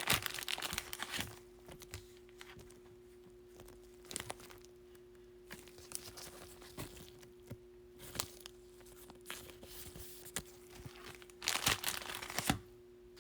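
Wrapper of a Bowman baseball card pack being torn open and crinkled: a burst of rustling at the start and another near the end, with faint ticks in between.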